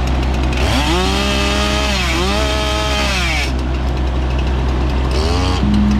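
Chainsaw revving up, held at high speed for a couple of seconds and easing off, then revving up again near the end, over a steady low hum.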